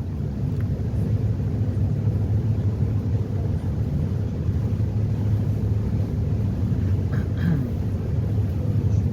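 Catamaran ferry's engines running under way, a steady low drone.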